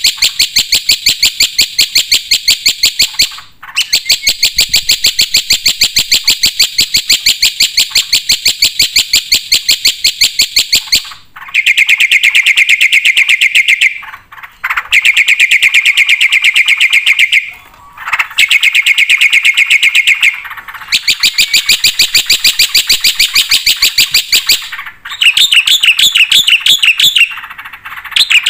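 Black-winged myna (jalak putih) singing in long runs of rapid, evenly repeated high notes. The runs are broken by short pauses every few seconds, and the pitch drops lower in the middle phrases.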